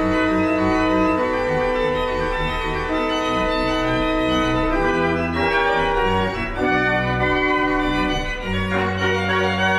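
Organ playing slow sustained chords over a moving bass line; about three-quarters of the way in, the bass settles on a long held low note.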